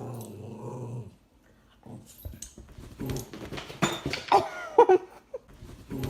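A pet animal growling low for about a second, then, after a short pause, giving a series of high cries that waver up and down in pitch.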